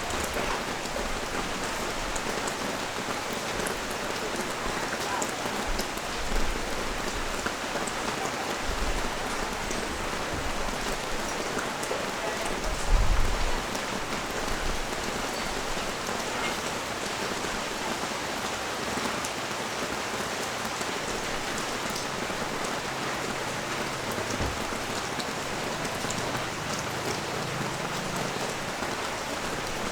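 Steady rain falling on the street and balcony: an even hiss with scattered ticks of single drops. A brief low rumble rises about halfway through and is the loudest moment.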